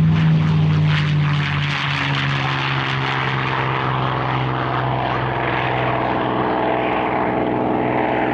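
Piston-engined propeller warbird running as it flies past, a steady droning engine note whose pitch drops slightly about a second in as it goes by.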